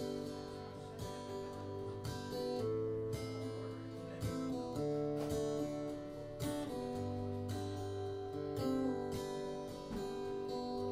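Acoustic guitar strummed, chords ringing on with no singing.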